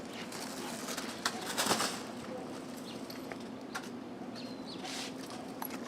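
Plastic bubble wrap crinkling and rustling as a puppy plays with it, with scattered small crackles and a louder rustle about a second and a half in, over a steady low hum.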